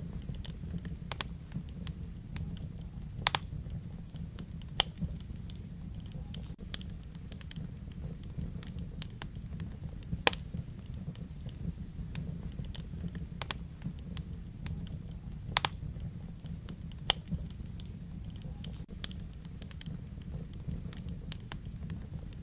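Wood fire crackling in a fireplace: a steady low rumble of flame with irregular small snaps and several sharper pops.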